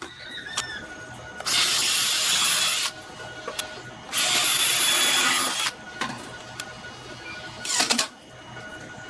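A small power tool run in two steady bursts of about a second and a half each, then a brief fast rattle near the end.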